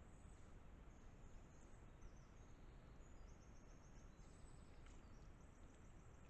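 Faint high-pitched songbird chirps and quick trills of repeated notes, thickest in the second half, over a steady low background rumble.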